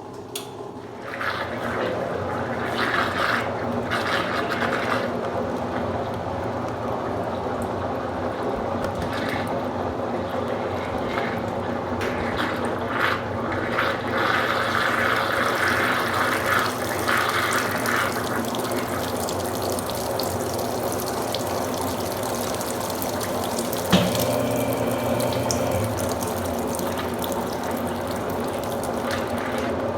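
Consul Super Cargo 8 kg (CWL08C) washing machine filling, with water rushing steadily into the tub from about a second in. There is one sharp click late on.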